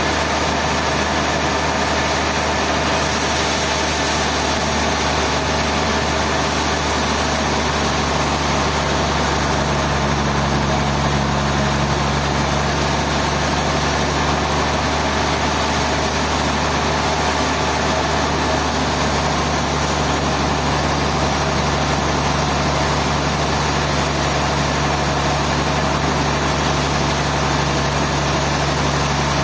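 Sawmill machinery running steadily, a continuous engine-like hum with no breaks or impacts.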